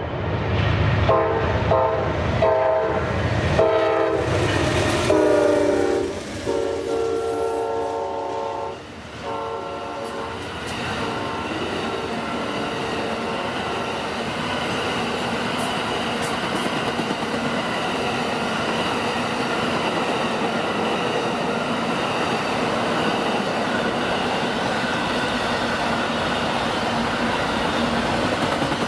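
Diesel locomotive air horn sounding several chord blasts over the first nine seconds or so, then the steady noise of the train's wheels and cars going past.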